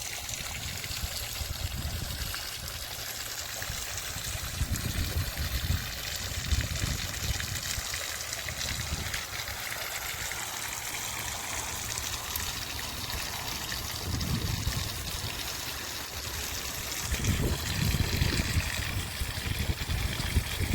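Mineral spring water trickling and running steadily over travertine terraces, with low rumbles coming and going a few times.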